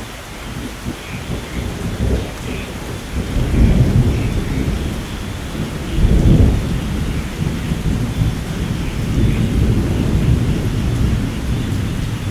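Steady rainfall with low rolling thunder that swells twice, about four and six seconds in.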